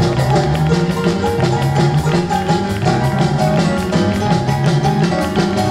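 Live band music with electric guitar, bass and a steady drum-kit beat.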